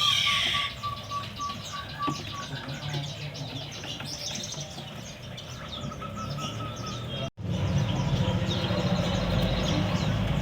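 Many caged songbirds chirping and calling at once, with short high chirps over one another and a brief run of repeated whistled notes near the start. The sound cuts out for an instant about seven seconds in, then the chirping carries on over a low hum.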